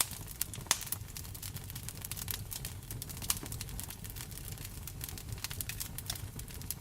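Wood fire in a fireplace crackling, with frequent sharp pops, the loudest a little under a second in and just after three seconds, over a steady bed of rain.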